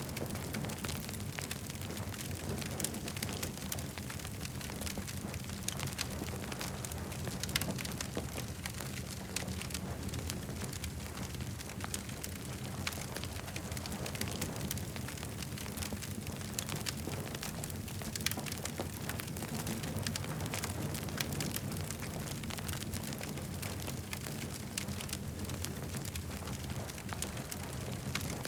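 Campfire crackling, with many small sharp pops scattered over a steady low rumble.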